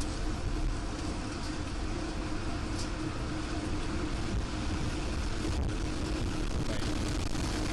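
Tornado wind roaring steadily on the microphone, a dense rumbling noise with a steady low hum running under it.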